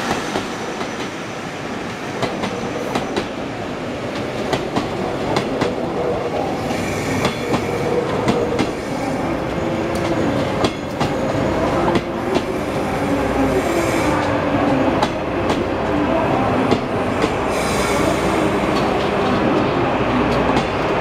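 24-series sleeper coaches rolling slowly past on arrival, their wheels clicking over rail joints, with a thin steady squeal from the running gear through the middle.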